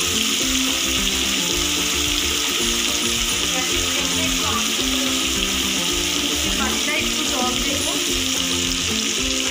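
Spice paste of tomato, garlic, ginger and onion sizzling steadily as it fries in hot mustard oil in a wok. Background music plays over it.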